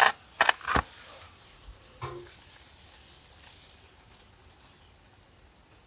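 Quiet outdoor background with a faint, steady, high pulsing trill throughout. A few sharp knocks come in the first second, and a short lower sound comes about two seconds in.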